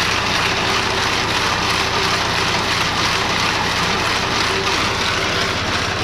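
Ice-cream churning machine for es dong dong running steadily: a constant motor hum under an even rushing noise.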